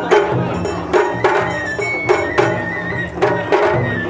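Japanese festival music (matsuri-bayashi): a high flute holding and changing notes over repeated drum strokes.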